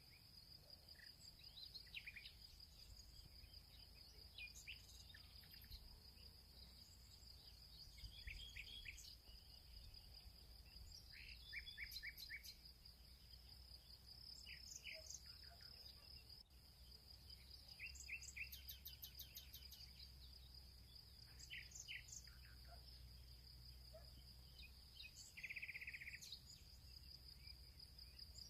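Field ambience: a steady high insect trill throughout, with many short bird chirps and quick trilled calls scattered across it, over a faint low rumble.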